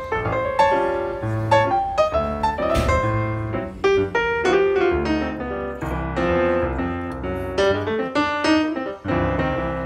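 Background piano music: a lively run of quickly struck notes over a bass line.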